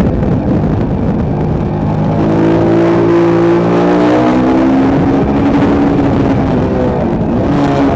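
Motorcycle engine running hard on a racetrack, a steady, loud note whose pitch drops about four seconds in and then climbs slowly again.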